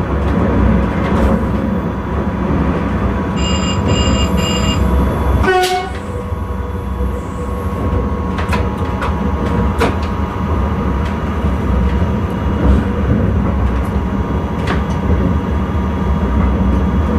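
Intercity train running at speed, heard from the driver's cab, with a steady low rumble of running noise. About three and a half seconds in there are three short beeps, then a brief tone that falls sharply in pitch. Sharp clicks from the track follow now and then.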